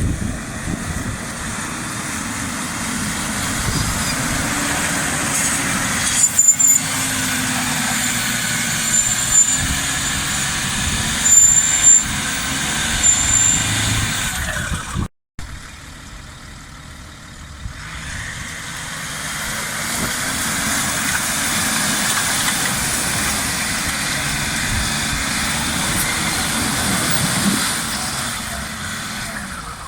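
Off-road SUV engines running and changing pitch as they pull under load, with rumbling noise over them. The sound cuts off abruptly about halfway through, then a similar engine sound resumes.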